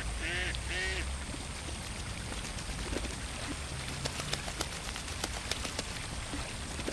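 A duck quacks twice right at the start, then a scatter of small sharp water splashes and clicks patters for a few seconds over a steady low hiss.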